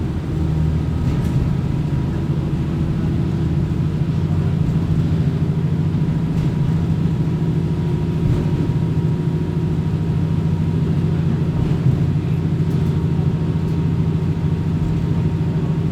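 Kominato Railway diesel railcar running, heard from inside the car: a steady engine drone under the rumble of the wheels on the track.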